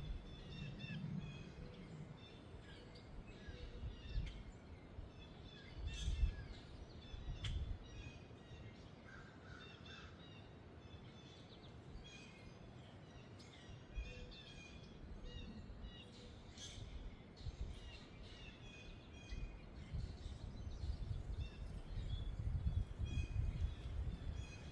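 Several wild birds chirping and calling in quick short notes, over gusts of wind rumbling on the microphone that come and go and are strongest near the end.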